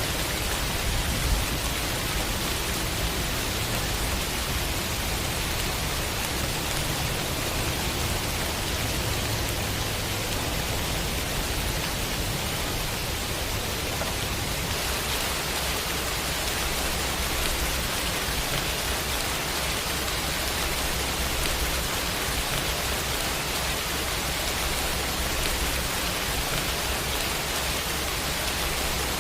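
Heavy rain falling steadily as a dense, even hiss, with a low rumble underneath that fades about halfway through.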